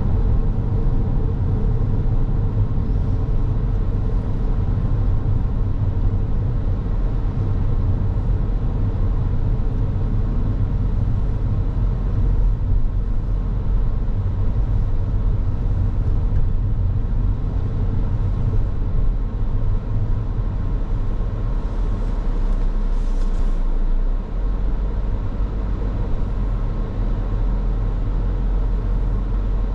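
Car driving along at a steady pace: a continuous low rumble of engine and tyre noise, with a faint steady hum above it.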